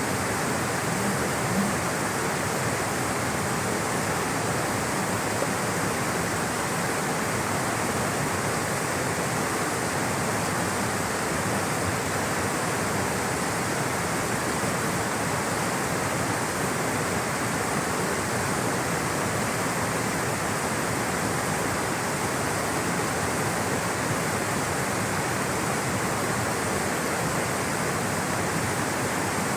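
Water rushing steadily over rocks in a stream or small waterfall, a constant even rush with no changes.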